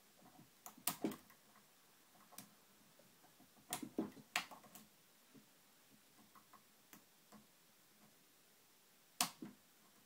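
Lock pick and tension wrench working in a TrioVing oval pin-tumbler cylinder during single-pin picking: irregular small metallic clicks and ticks, with a few louder clicks about a second in, around four seconds and just after nine seconds.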